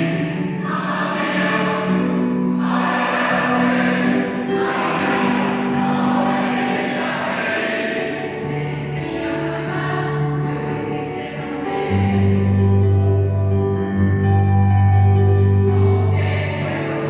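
Choir singing a slow passage of long held chords, with deep low notes coming in strongly about twelve seconds in.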